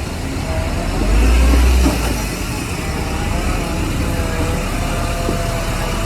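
Diesel engine of heavy earthmoving machinery running under load with a deep rumble. It swells louder for about a second, starting about a second in.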